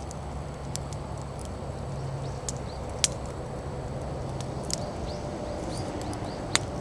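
Wood bonfire burning with light crackling and a few sharp pops, the two loudest about three seconds in and near the end.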